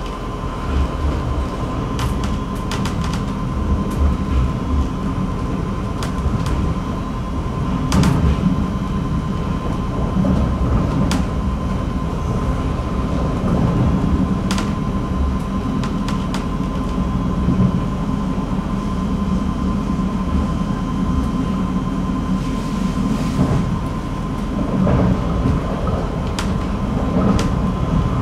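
ČD Class 471 CityElefant double-decker electric train running, heard from aboard: a steady low rumble with a thin steady tone over it and scattered, irregular sharp clicks.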